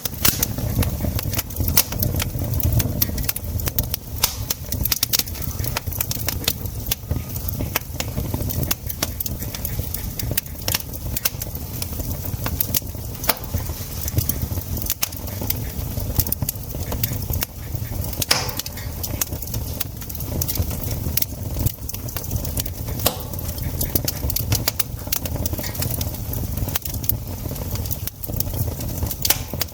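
Campfire crackling, with frequent sharp pops over a steady low rumble.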